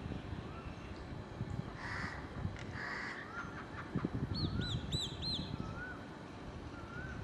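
Birds calling outdoors: two harsh caws about two and three seconds in, typical of crows. Other birds add a short wavy call repeating about once a second and a quick run of four high, arched whistled notes near the middle, over a low background rumble.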